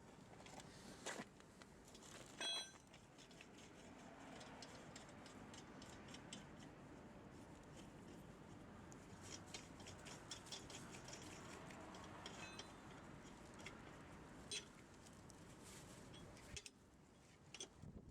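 Faint clicks and light metallic clatter over a low steady hiss, with one louder ringing metal clink about two and a half seconds in: metal tools and parts being handled during a tyre change.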